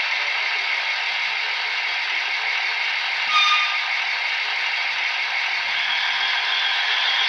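Model train running on the layout's track: a steady clattering whir of wheels and a small motor. A short, high pitched tone sounds once, about three and a half seconds in.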